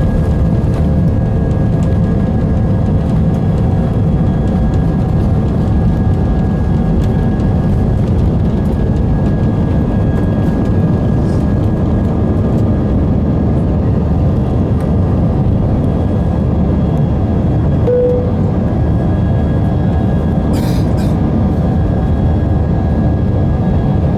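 Airbus A319 jet engines heard from inside the cabin during takeoff and climb: a steady, loud rumble with a few steady tones. There is a brief tone about three-quarters of the way through and a short click soon after.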